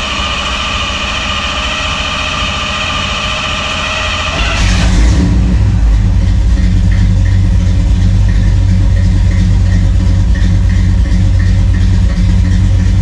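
Chevrolet Bel Air being started after months of sitting: the starter cranks with a steady whine, then about four and a half seconds in the engine fires and settles into a steady, much louder run. The long crank is typical of the carburettor bowls refilling after the fuel has evaporated.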